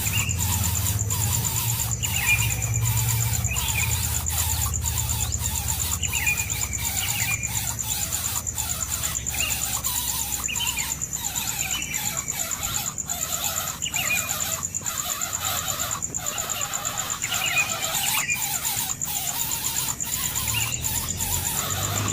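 Birds, most likely the nestlings, giving short chirps that fall in pitch, one every second or two, over a steady high insect-like drone and scattered light clicks.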